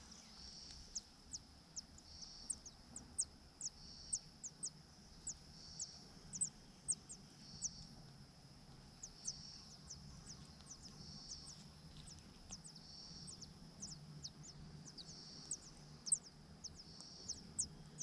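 A small bird gives short, very high, thin chirps that fall in pitch, irregularly, about one to two a second. Under them is a faint hiss that swells and fades over and over, and a low steady hum.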